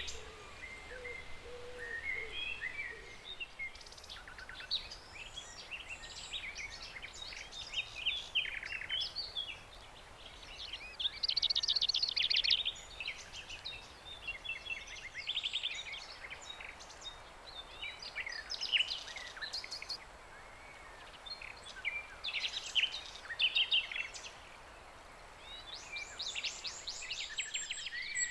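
Several songbirds singing and calling together, a busy mix of chirps, short whistles and rapid trills, over a faint steady background hiss.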